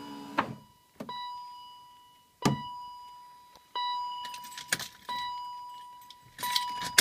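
A single-pitched ringing tone that sounds about five times, roughly a second and a half apart, each fading away, among sharp metallic clicks and knocks.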